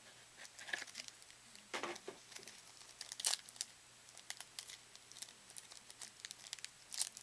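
A trading-card pack wrapper crinkling in the hands, short irregular crackles with a few louder ones about two and three seconds in and near the end.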